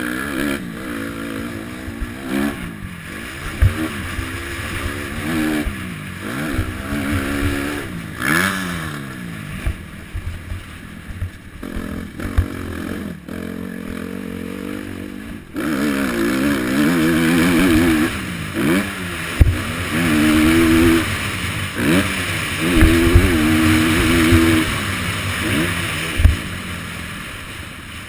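Motocross bike engine revving up and shifting down over and over, its pitch rising and falling every second or two as it rides the track, with scattered low knocks throughout. It is loudest in the second half.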